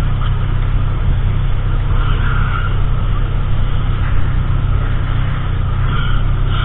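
Car engine idling, a steady low hum with an even hiss over it, heard from inside the cabin.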